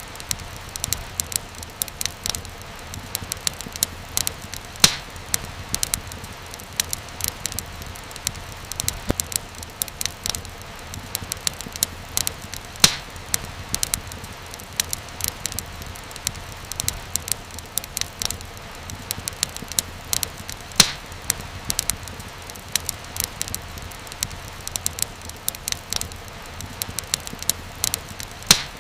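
Wood fire crackling steadily over a low rumble, with frequent sharp pops and snaps, a few noticeably louder than the rest.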